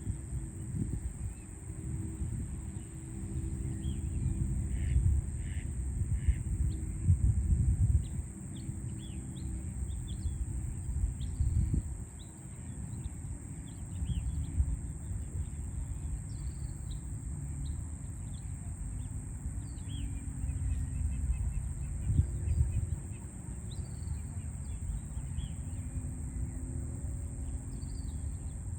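Many short bird chirps and calls scattered over a steady low rumble of city traffic.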